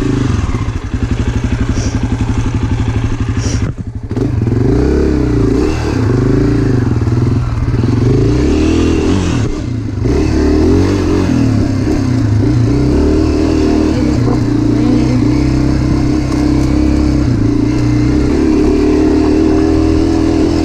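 Dirt bike engine running under throttle on a trail, its pitch rising and falling as it is revved and eased off. The engine briefly drops about four seconds in and again about ten seconds in.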